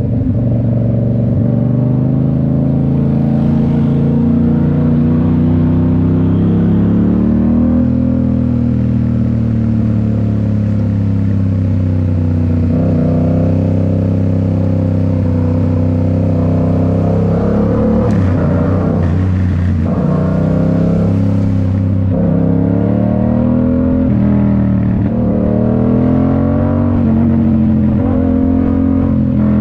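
2019 Yamaha MT-07's parallel-twin engine through a Toce full exhaust, running steadily under way. Its pitch repeatedly rises and falls with throttle and gear changes, with a brief drop about two-thirds of the way through before it climbs again.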